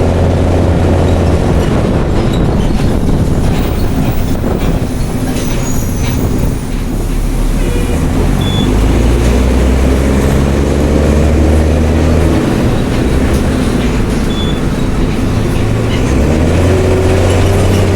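Mercedes-Benz OM366LA inline-six turbo-diesel of a city bus running with an open, straight-through exhaust, loud and under way. Its engine note shifts up and down several times as the bus changes speed and gear.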